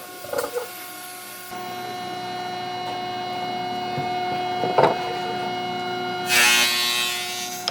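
An electric power tool running with a steady whine, with a sharp knock about five seconds in and a loud burst of hiss near the end.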